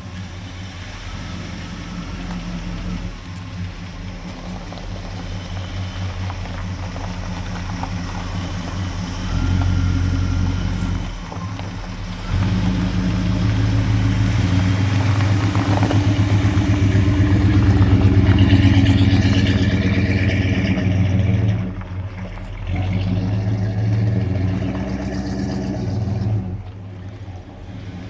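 1965 Chevrolet El Camino's engine running with the throttle rising and falling. It builds to its loudest a little past halfway, then eases off twice near the end.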